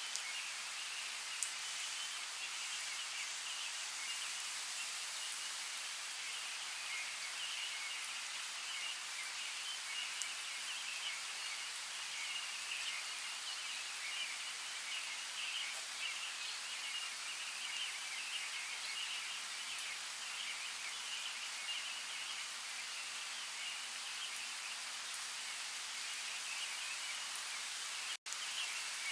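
Steady forest rain: an even hiss of falling drops, broken by a momentary silent gap near the end.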